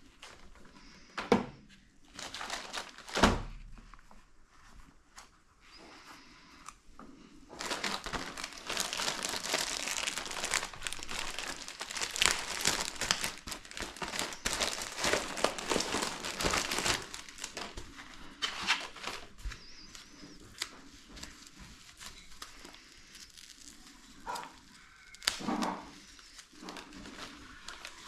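Crinkling and tearing noises of material being handled, with a dense stretch of several seconds in the middle. Two sharp knocks come in the first few seconds, and a few scattered handling noises come near the end.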